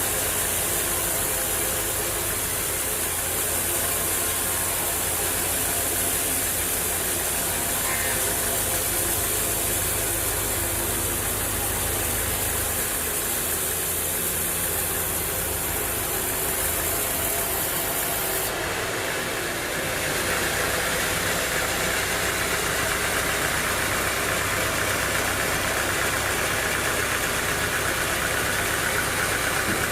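Sawmill machinery running steadily with an engine-like drone; its tone changes abruptly a little over halfway through.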